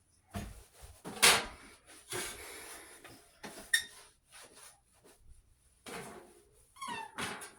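Kitchen clatter from cupboard doors and drawers knocking shut and dishes clinking: a series of separate knocks, the loudest about a second in, with a short squeak near the end.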